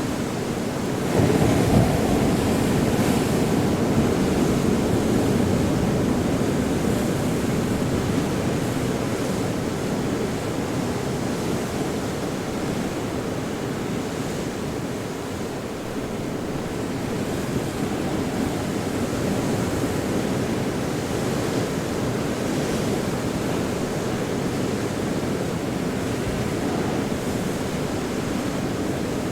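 Ocean surf: waves breaking and washing in a continuous rumbling wash, with a surge about a second in that slowly eases and builds again after the middle.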